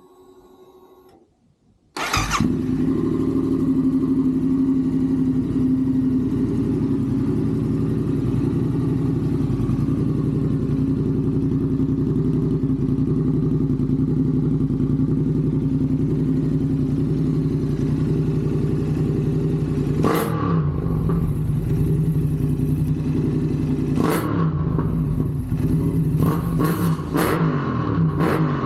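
Yamaha R7's 689 cc crossplane parallel-twin, breathing through a Vance and Hines full-system exhaust with the baffle removed, starts about two seconds in and idles steadily, a little ringy. Near the end it is given a throttle blip twice, a few seconds apart, then several quick blips in a row.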